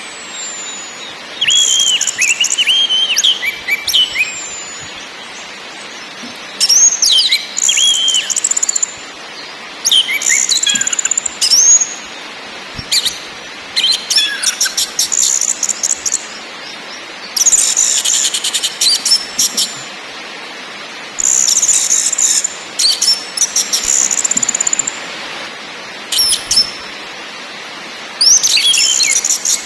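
Orange-headed thrush singing: repeated short phrases of gliding whistled notes mixed with rapid stuttering chatter, coming in bursts every few seconds over a steady faint hiss.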